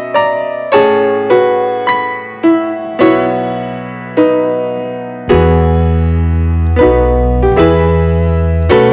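Calm solo piano music: single notes struck about once a second and left to ring and fade, with deep sustained bass chords coming in about five seconds in.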